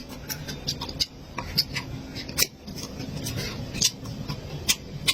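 Close-miked eating: irregular wet chewing and mouth clicks, a few a second.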